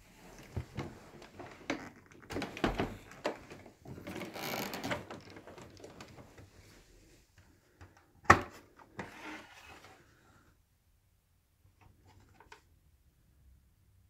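Irregular clicks, knocks and rustling of things being handled, with one sharp knock about eight seconds in, then a few faint clicks.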